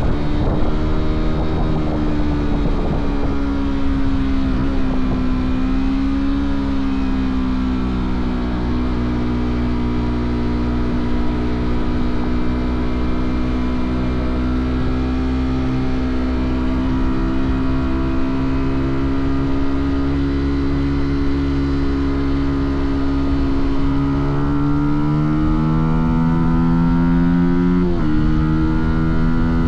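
Fantic Caballero 125's single-cylinder four-stroke engine and exhaust pulling the bike along at a steady cruising pitch. Near the end the revs climb, then fall sharply with a gear change.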